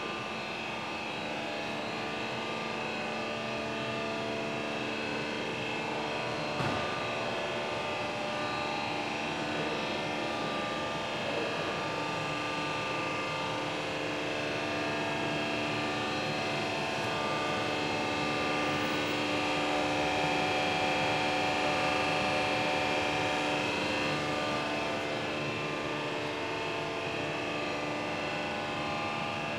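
Böhringer NG200 CNC lathe running, a steady hum made of several constant tones from its motors, with a single click about seven seconds in.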